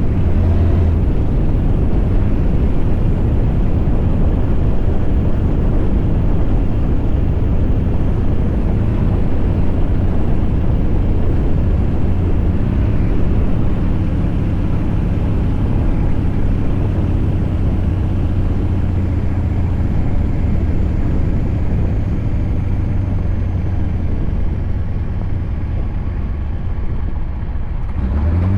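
Scania V8 diesel truck engine running steadily under way, a deep low drone.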